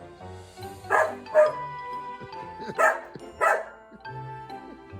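Dutch Shepherd barking: four short barks in two pairs, one pair about a second in and the other near three seconds in, over background music with held notes.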